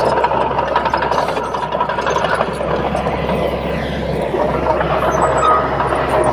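Komatsu D31P bulldozer working: its diesel engine running steadily under a dense clatter of machinery, with a faint whine sliding slowly down near the end.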